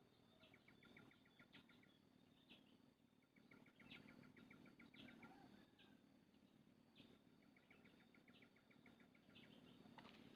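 Faint spiderhunter calls: three rapid trains of short, even notes, about ten a second, each lasting a second or so, with scattered sharp higher chirps between them.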